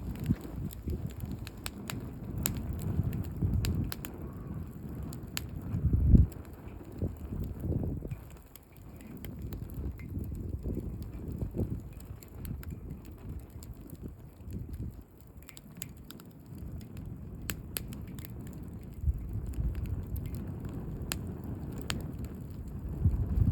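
Wood campfire burning down to embers, with scattered sharp crackles and pops. Wind rumbles on the microphone in gusts, loudest about six seconds in.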